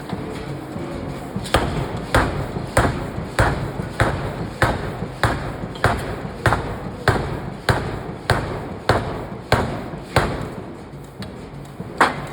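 Forging hammer striking hot steel in a steady rhythm, about one and a half blows a second, over a low machine hum. The blows begin a second or so in, weaken towards the end, and one last hard blow lands near the close.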